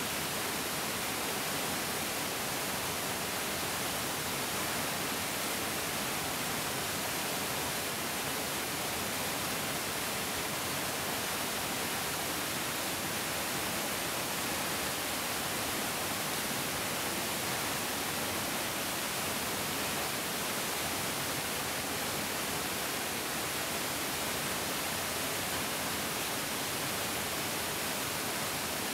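A large mountain stream flowing with a steady, even rushing hiss that does not change.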